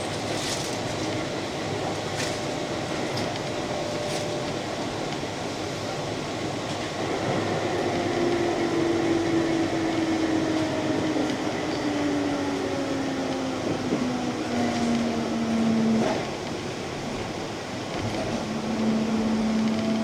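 Keihan electric train running on the rails, with a few wheel clicks over rail joints early on. From about a third of the way in, the motor whine falls slowly in pitch as the train slows, drops away briefly, then settles into a steady hum near the end.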